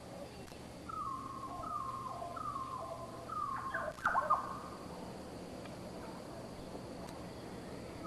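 A bird calling: a run of about five short falling notes, a little under a second apart, over a faint steady hum.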